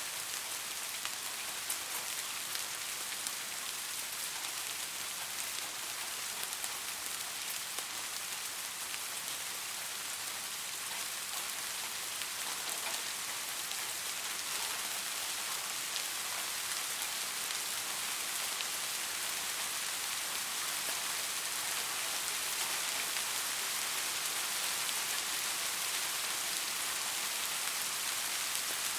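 Soft rain falling steadily, an even hiss of many fine drops pattering on a surface.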